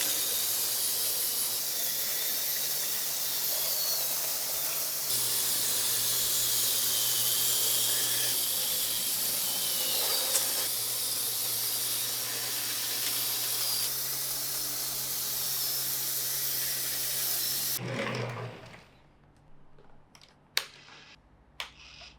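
Battery-powered Plarail toy trains running: small electric motors whirring with a steady hiss of plastic wheels on plastic track, changing abruptly at a few points. About three-quarters of the way through it stops suddenly, leaving a few sharp clicks.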